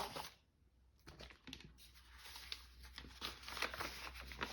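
Sheets of paper being handled and laid together, making light rustling and crinkling with small ticks. There is a short pause about half a second in.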